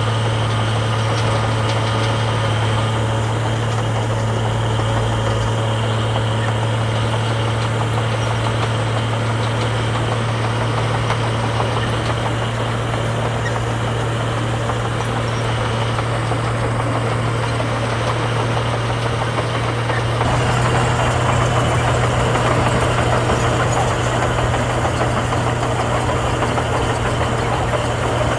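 Heavy diesel engine of earthmoving machinery running steadily with a deep hum. About twenty seconds in it gets louder and rougher.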